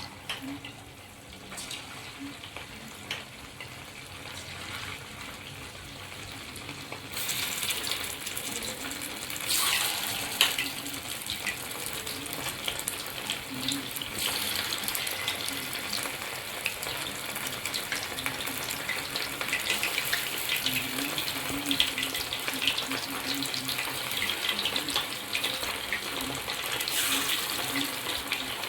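Marinated chicken strips deep-frying in hot oil: a steady sizzling hiss full of small crackles. It swells louder about seven seconds in and again near ten seconds as more pieces are dropped in, and stays loud after.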